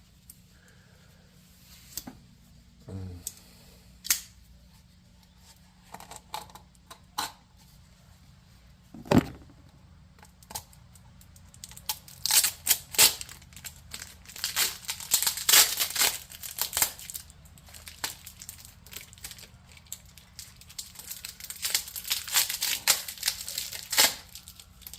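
Adhesive tape pulled off the roll and torn, with clicks and knocks from a plastic funnel being handled. There are scattered clicks at first; from about halfway a long run of crackling, ripping noise follows.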